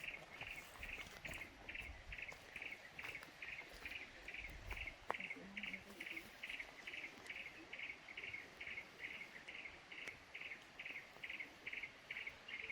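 Faint insect chirping, a cricket-like pulse repeated steadily about three times a second.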